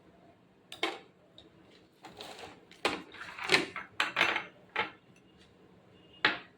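Irregular clatter and clinks of kitchen utensils and dishes being handled: a string of sharp knocks and scrapes, the loudest about three and a half seconds in and a last one near the end.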